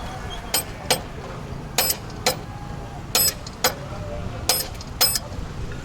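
Sharp metallic clicks in pairs, about a pair every second and a half, from metal tools on car parts, over a steady low hum.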